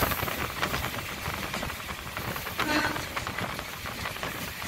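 Electric multiple-unit passenger train running along the track, heard on board: a steady rumble with the rattle and clicking of the wheels and carriage, and a brief higher-pitched sound about two and a half seconds in.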